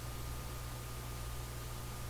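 Steady low electrical hum with hiss and a faint thin high tone: the background noise of the recording setup, with nothing else sounding.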